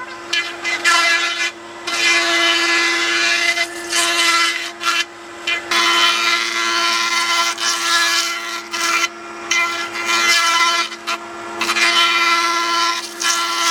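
Handheld electric power tool working wood: its motor runs at a steady pitch while a rasping cutting noise comes and goes as the tool bites into the wood and lifts off, several times.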